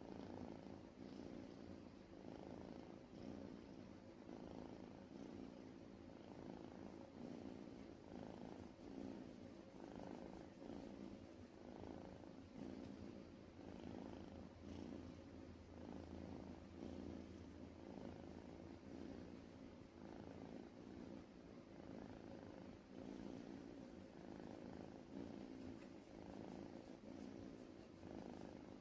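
Scottish Fold kitten purring steadily, close up and faint, the purr swelling and easing with each breath about once a second.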